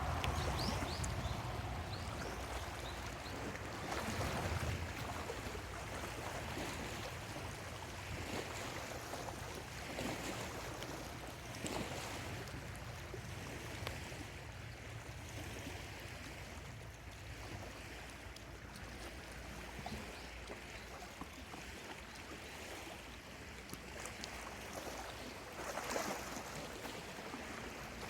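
Small lake waves lapping at the shore: a steady wash with a soft splash every few seconds.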